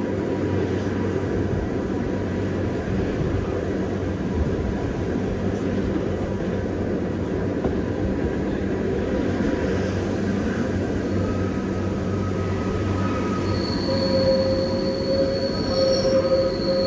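Gornergrat cog railway train running steadily with a continuous low rumble and hum. About two-thirds of the way in, high, steady squealing tones from the wheels join in and grow loudest near the end.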